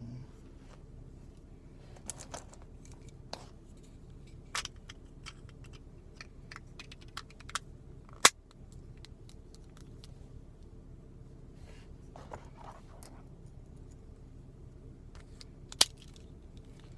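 Scattered small clicks and scrapes from handling a Lexus remote key fob while reassembling it after a battery change, the sharpest click a little past the middle and another near the end.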